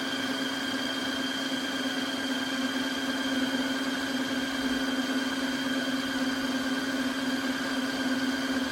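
Tineco iFLOOR 3 wet-dry vacuum running the brush-roller stage of its self-cleaning cycle: a steady motor hum with a constant low tone and fainter higher tones that hold unchanged throughout.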